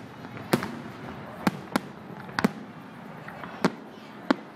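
Firework display: aerial shells bursting in sharp bangs, about seven at irregular intervals, two of them in quick succession near the middle.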